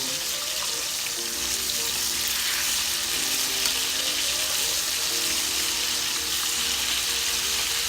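Talakitok (trevally) fish frying in hot oil in a pan: a steady, even sizzle with no break.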